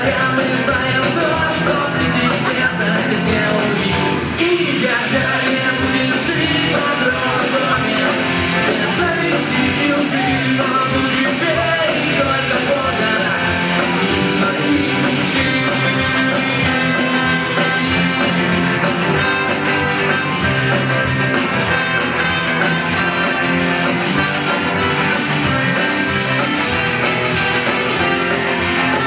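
Live rock band playing a song, with sung vocals over guitar and a steady drum beat.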